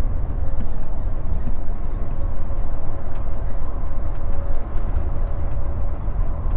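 Steady low rumble of a vehicle driving on the road, with a faint constant hum above it.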